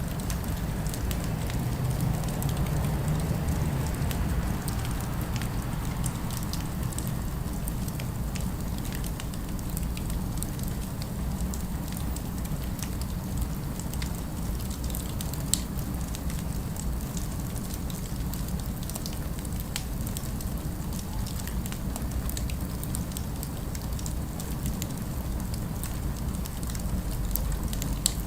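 Crackling fireplace ambience: a steady low rumble under frequent small pops and crackles, with a couple of sharper pops. Faint city background is mixed in underneath.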